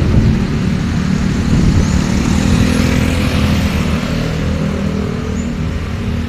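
Road traffic passing close by: motor vehicle engines running, with tyre and road noise.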